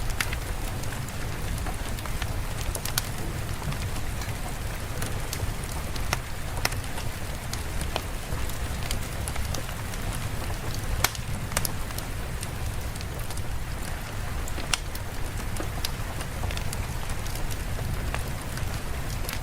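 Steady rain ambience with a low rumble underneath and scattered sharp ticks of drops.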